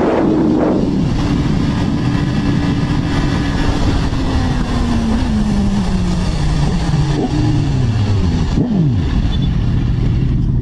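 Racing motorcycle engines on a track. One engine note falls slowly and steadily in pitch through the whole stretch. A bike passes close right at the start, and another goes by quickly about nine seconds in, its pitch dropping sharply as it passes.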